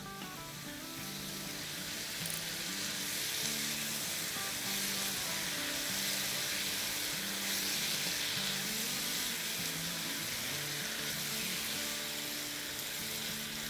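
Sliced ridge gourd and spice masala sizzling in hot oil in a wok while being stirred, at the bhuna stage where the masala is fried down. The sizzle grows a little louder over the first few seconds, then holds steady.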